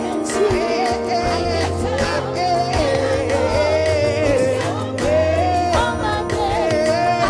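Live gospel worship music: a singer's voice holding and bending a melody over instrumental backing.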